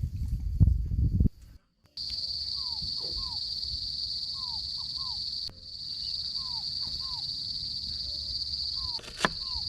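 A steady, high-pitched drone of insects, with a bird repeating short falling whistles in twos and threes about every second and a half. In the first second there is a low, loud rustling, and near the end there is a sharp click.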